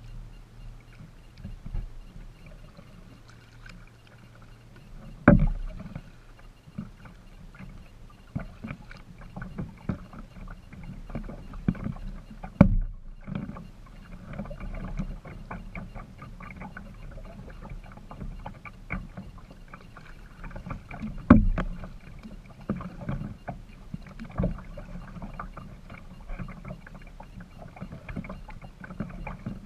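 Kayak out on the water: paddling sounds and water noise, with many irregular knocks and clicks and two loud thumps about 5 and 21 seconds in.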